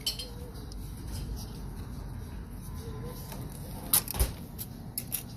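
Light clicks and knocks of small engine parts being handled and fitted by hand, over a steady low hum, with a sharper knock and click about four seconds in.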